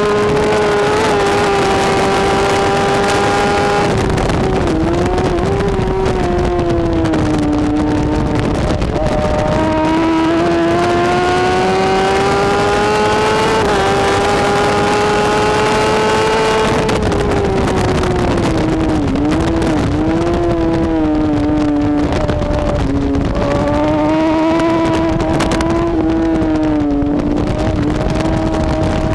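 BMW S1000RR superbike's inline-four engine at racing speed, its pitch climbing in long pulls and falling back several times as it shifts gears and slows for bends. Wind and road noise run underneath.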